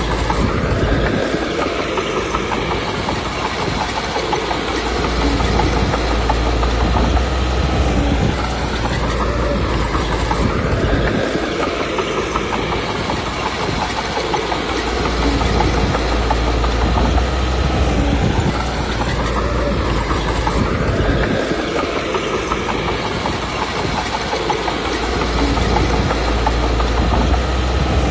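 Komatsu D21P bulldozer working: its diesel engine runs under load with the steel tracks clattering, the engine pitch rising and falling in a repeating cycle every few seconds.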